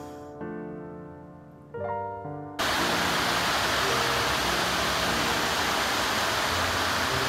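Soft piano music, then a little over two seconds in a loud, steady hiss of falling water cuts in suddenly and runs on, with the piano continuing faintly beneath it.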